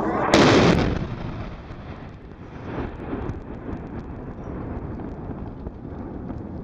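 An explosion: a sudden loud blast about a third of a second in that dies away over about a second, followed by a lower rumbling noise with faint scattered crackles.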